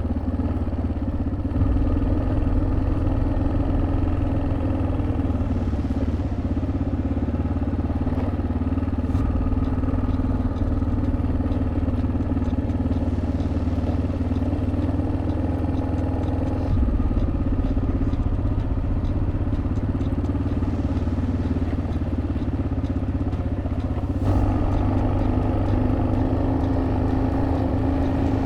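Single-cylinder four-stroke engine of a 1987 Yamaha XT600Z Ténéré running steadily under way, with a few small changes in throttle, about two seconds in, around seventeen seconds and again around twenty-four seconds.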